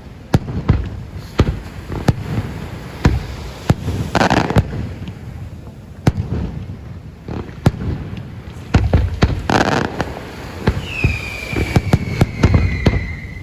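Fireworks display: repeated sharp bangs of exploding shells, with a couple of longer rushing bursts. From about eleven seconds in, a whistling firework gives a high whistle that slowly falls in pitch.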